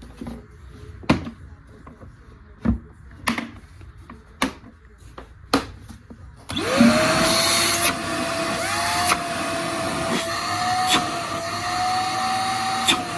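A few sharp clicks and knocks of handling, then about six and a half seconds in a Kärcher construction vacuum cleaner's motor starts up and runs with a loud, steady whine, with occasional knocks over it.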